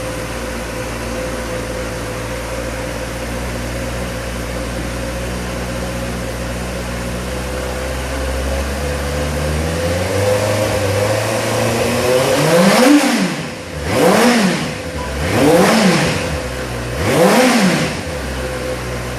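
Benelli TNT 600 GT motorcycle's inline four-cylinder engine idling steadily through the exhaust, then blipped four times in the second half, each rev rising sharply and falling back, before settling to idle again.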